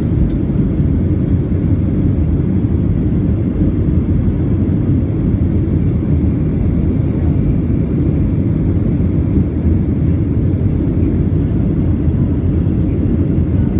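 Steady, deep cabin noise of a Boeing 737-700 in flight: jet engines and rushing air, heard from inside the cabin.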